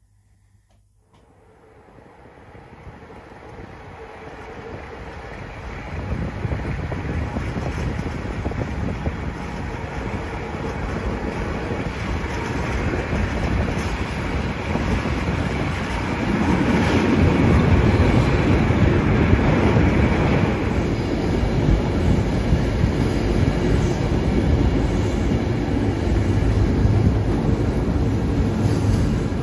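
Passenger train pulling out of the station, heard from an open window of one of its coaches: wheels rolling on the rails, a steady rumble that fades in about a second in and grows louder over the next few seconds, then louder again about halfway through.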